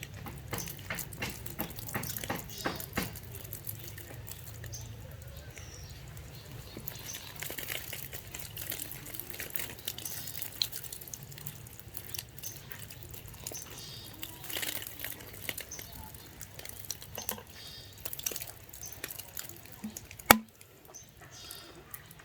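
Water splashing and dripping as young green pigeons (punai) are bathed, in many small irregular splashes and ticks. One sharp click sounds near the end.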